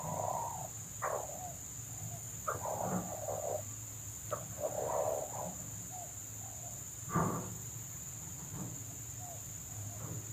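Red junglefowl calling in a handful of short, rough calls, over a steady high drone of insects.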